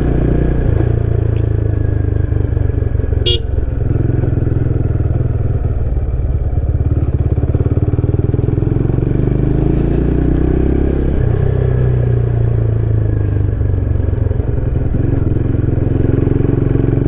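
Motorcycle engine running under way, its pitch rising and falling as the speed changes. A short, sharp high sound comes about three seconds in.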